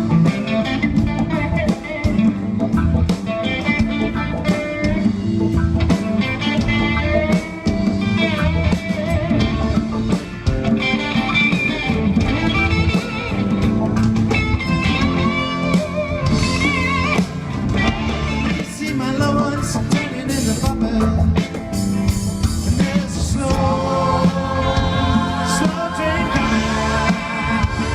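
A reggae band playing live, with a singer over guitar, bass and drums.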